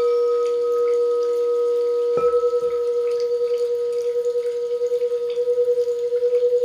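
Singing bowl struck at the start and struck again about two seconds in, ringing on in a steady tone with a slow wavering pulse, sounded for the crown chakra.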